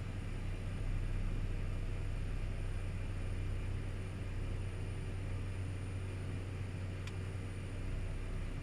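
Cessna 208B Caravan's turboprop engine and propeller heard from inside the cockpit: a steady low drone with a thin high whine over it. A faint tick comes about seven seconds in.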